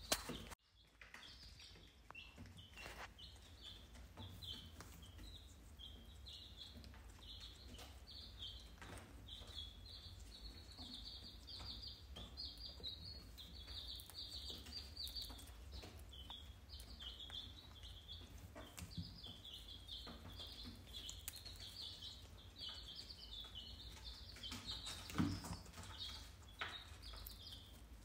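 Birds chirping steadily in short high notes, several a second, over a low steady hum, with a few faint clicks.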